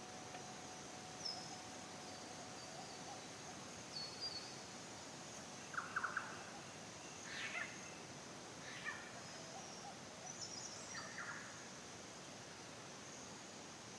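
Forest ambience: a steady high insect drone and hiss under scattered short bird calls and chirps, the loudest a quick cluster of notes about six seconds in.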